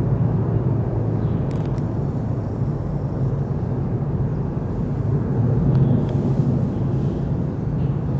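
Jet engines of a Boeing E-3 Sentry AWACS aircraft (four TF33 turbofans) taking off: a loud, steady, low roar that swells slightly about six seconds in.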